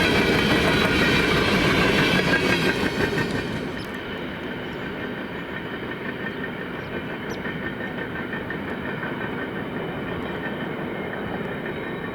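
Freight train cars rolling past on the rails with a clickety-clack of wheels over rail joints. The sound is loudest for the first three seconds, then drops and goes on more quietly and steadily.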